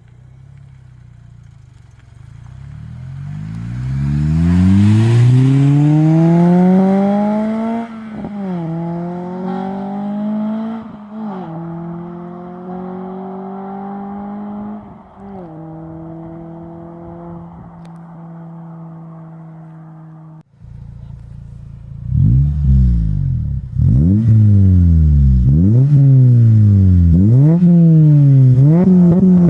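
Acura RSX Type S four-cylinder i-VTEC engine through an Invidia N1 catback exhaust, pulling hard in acceleration with the pitch climbing, then dropping at three upshifts and settling into steady cruising. After a break it is revved sharply several times in a row, each rev rising and falling quickly, about one every second and a half.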